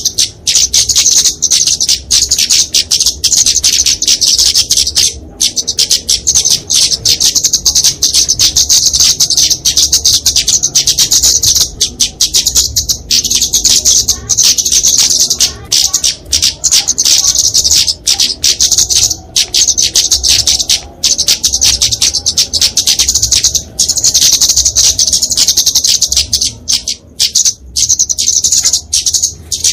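Flowerpecker (kemade) giving its fighting calls: a near-continuous stream of very rapid, high-pitched chips, broken now and then by brief gaps.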